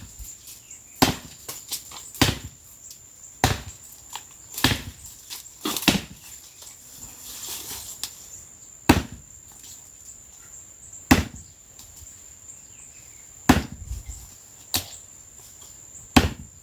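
Axe chopping into the dry wood of a dead cashew tree: about ten sharp, separate strikes, roughly one a second, with a pause of a few seconds midway. The axe is blunt. A steady high insect drone runs underneath.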